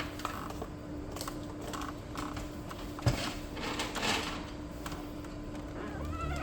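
Plastic casing of an Epson L3256 inkjet printer being handled as its top cover is opened: light clicks, a sharp knock about three seconds in, then about a second of plastic scraping, over a steady low hum.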